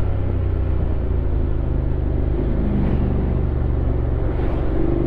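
Honda X-ADV 750's parallel-twin engine running steadily under way, over a haze of wind and road noise, its pitch shifting a little about two and a half seconds in and again near the end.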